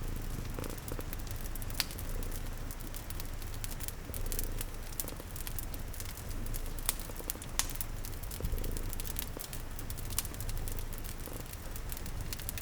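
Layered ambience: a domestic cat purring low and steadily, a wood fire crackling with frequent sharp pops, and a soft patter of rain.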